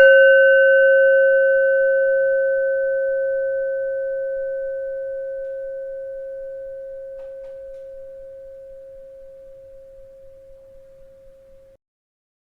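A bell struck once, ringing a clear, pure tone with a few higher overtones that fades slowly over about twelve seconds, then cuts off abruptly near the end.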